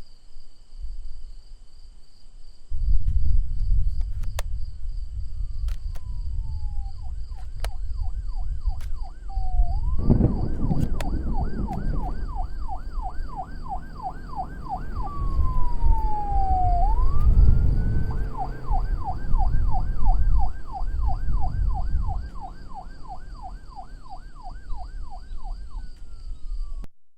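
Electronic emergency-vehicle siren in yelp mode, sweeping up and down about three times a second, with a few slower falling wails between runs, over a loud low rumble.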